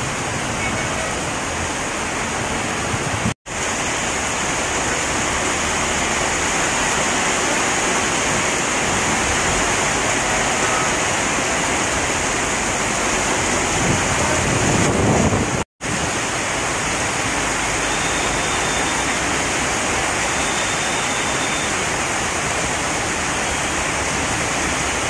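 Heavy tropical downpour: a steady, dense hiss of rain pouring down. A low rumble swells briefly just past the middle, and the sound cuts out for a split second twice.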